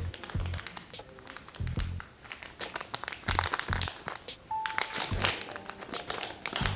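Packaging crinkling and crackling as it is handled, in quick irregular bursts that grow busier in the second half, over background music with a low, spaced beat.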